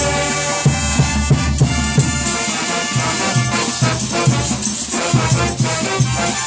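Brass band playing a cumbia: trumpets and trombones hold sustained chords over a steady low drum beat.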